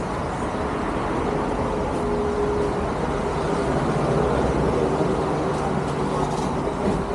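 Motorcycle running steadily while being ridden, with engine drone and wind rushing over the microphone; the engine note rises slightly about halfway through.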